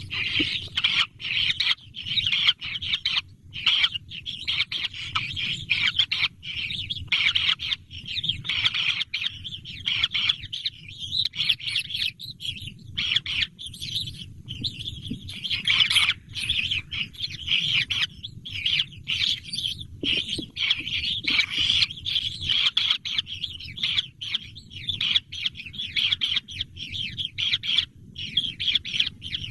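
Young birds chirping continuously in a dense run of rapid, high, short calls that never stop for long.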